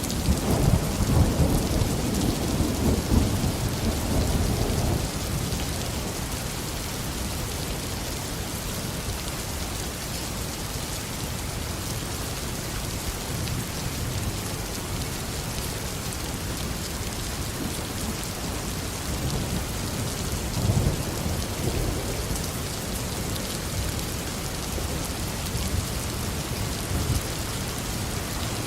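Steady heavy rain falling, with a low rumble of thunder through the first few seconds and a second, shorter rumble a little past the middle.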